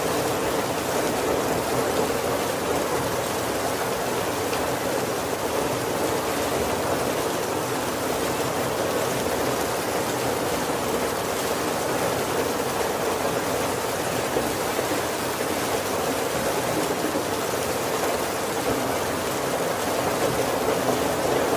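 Heavy rain falling steadily on the roof of a wooden carriage: an even, unbroken rush of rain with no thunder.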